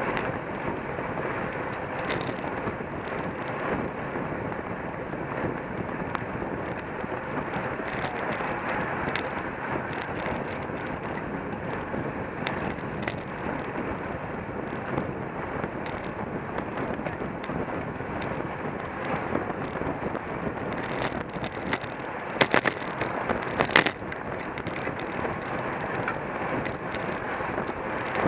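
Wind rushing over the microphone of a camera riding on a racing bicycle, over steady tyre and drivetrain noise from the bike. A few sharp clatters near the end.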